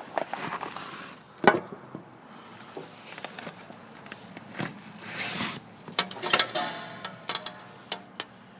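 A few irregular sharp clicks and knocks with short rustling scrapes. The loudest knock comes about a second and a half in, and a cluster of clicks follows near the end. No engine is running.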